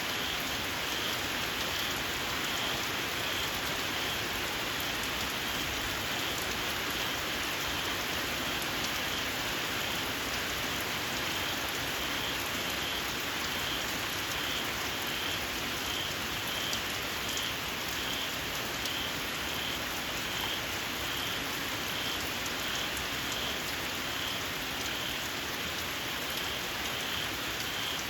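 Steady rain falling, with a small frog giving short, shrill calls in an even series of about one a second.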